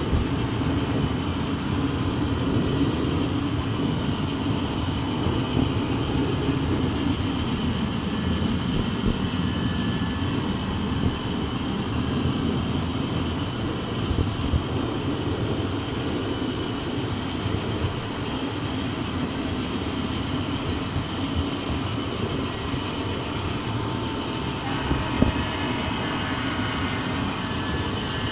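Train in motion: a steady rumble of wheels on rail, with a single sharp knock near the end.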